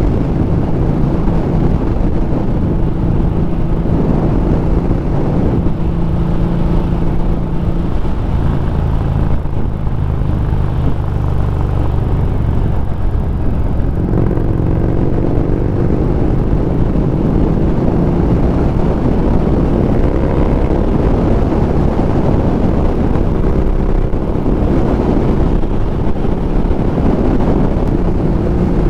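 Harley-Davidson Street Rod 750's V-twin engine running under way over a steady rush of wind and road noise. Its note shifts: it drops about eight seconds in and climbs slowly from about halfway.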